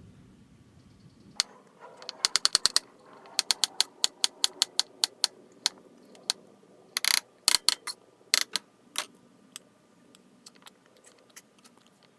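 Kitchen knife chopping bananas on a cutting board: a quick run of taps, then irregular single chops that grow sparser near the end.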